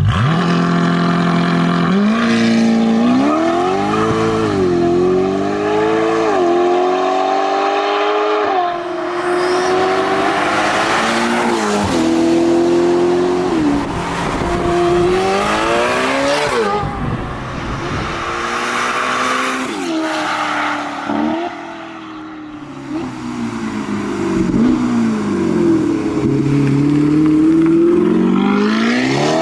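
Ferrari Portofino M's twin-turbo V8 sounding through a Novitec stainless-steel sport exhaust, the engine note climbing and dropping again and again as the car is revved and driven, with a rushing noise at a couple of points.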